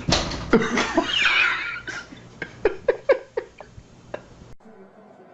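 A pet animal making a burst of noise, then a quick run of about seven short, pitched cries over less than two seconds, which stop abruptly.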